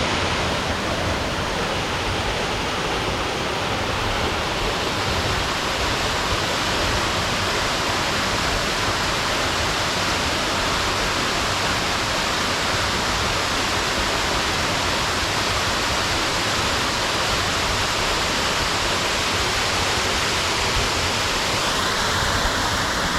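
Ripley Falls, a waterfall cascading over granite cliffs, making a steady rush of falling water that turns slightly brighter and hissier near the end.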